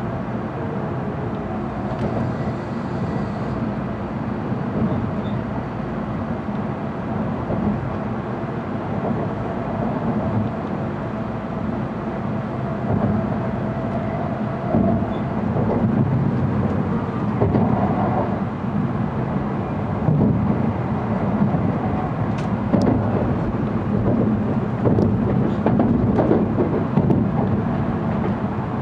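Cabin noise inside an N700-series Shinkansen car slowing into a station: a steady low rumble with a faint hum, then from about halfway a run of knocks and clatter as the wheels cross the station points.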